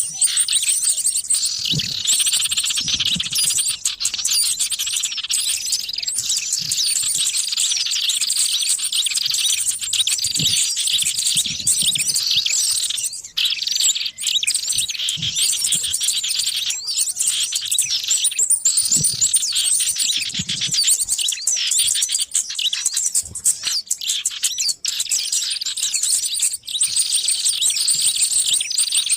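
Dense chorus of many small birds chirping and twittering without a break, high-pitched and busy: a bird-trapping lure recording of noisy small birds.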